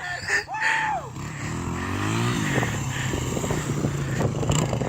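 Honda XR100 dirt bike's small single-cylinder four-stroke engine revving: its pitch climbs for about a second, eases back, then holds steady. A short shout comes just before the engine rises.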